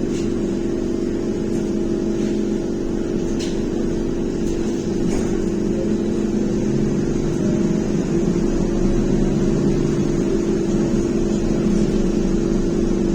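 Cabin sound of a BKM-321 trolleybus under way: a steady electric hum with one strong constant tone over the running noise of the ride. Lower tones shift and the sound grows slightly louder from about six seconds in. Faint clicks come about three and five seconds in.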